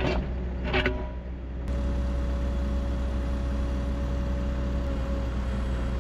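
Excavator's diesel engine running steadily, with two short knocks in the first second.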